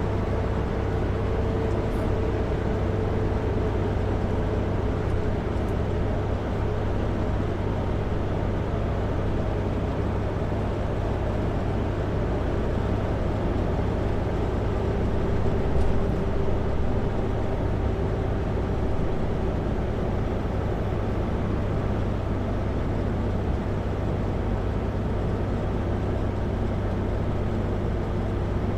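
Kenworth W900L semi truck's diesel engine running under engine-brake retarding on a long downhill grade, heard from the cab: a steady low drone whose engine note sinks slowly in pitch.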